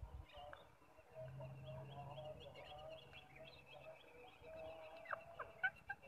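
Faint bird chirping: short high chirps repeated several times a second. A steady low hum runs through the first half, and a few sharp clicks and a brief falling whistle come near the end.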